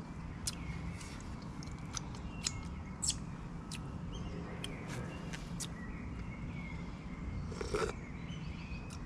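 Quiet outdoor background with faint bird chirps and scattered sharp clicks. Near the end comes a short sip as a drink is taken from a small glass.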